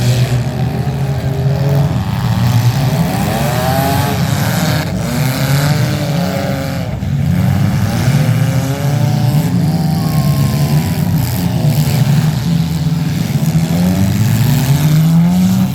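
Several demolition derby car engines revving up and down at once, their pitch rising and falling continuously as the cars are driven around the ring.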